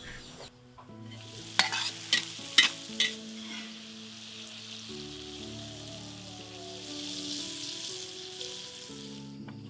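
Fried eggs sizzling in balado chili paste in a wok, with a metal spatula knocking sharply against the pan four times in quick succession early on. The sizzle grows louder in the second half and cuts off suddenly near the end.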